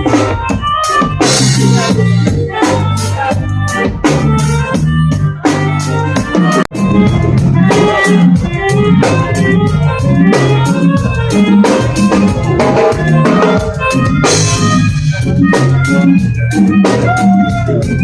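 Band music with drum kit and organ over a stepping bass line, with a momentary break about two-thirds of the way through.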